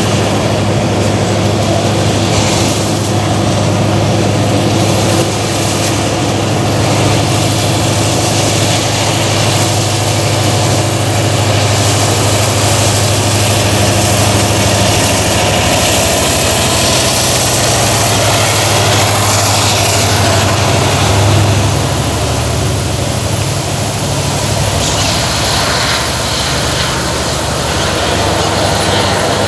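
Freight train passing: the steady low drone of mid-train diesel-electric locomotives working under load, over the rumble of the wagons on the rails. The engine drone eases off after about twenty seconds as the locomotives move away.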